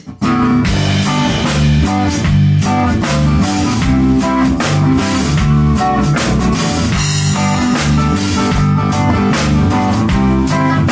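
A band playing an instrumental rock intro: guitar over a drum kit with a steady beat, kicking in abruptly right at the start.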